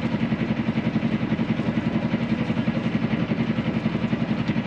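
Small sailboat engine running steadily at low revs, with a fast, even beat.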